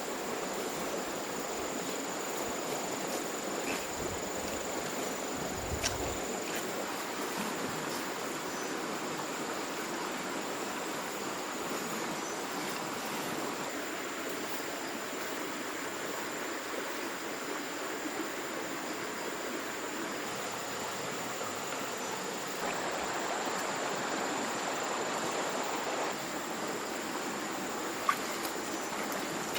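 Steady outdoor ambience: an even rush of flowing water with a thin, steady high-pitched drone of insects above it and a few faint clicks.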